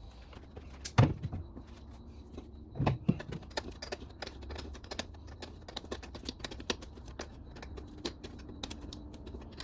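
Irregular clicking and tapping of hand tools and loose metal parts being handled, with two louder knocks about a second in and just before three seconds.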